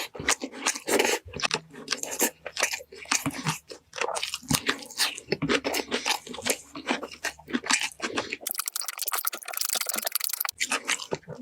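Close-miked mukbang eating of roast chicken and pork shank: dense, irregular crunches and wet chewing clicks as the meat is bitten and chewed.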